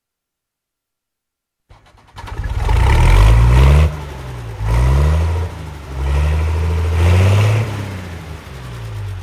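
Small engine of a custom-built miniature tractor starting up about two seconds in, then revved up and let back down three times.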